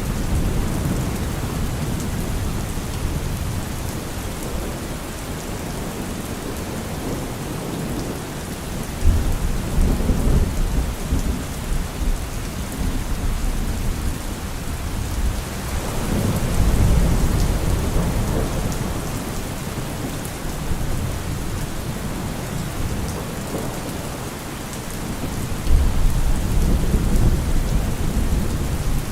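Steady rain falling, with deep rolling thunder rumbling up three times: about a third of the way in, just past the middle, and near the end.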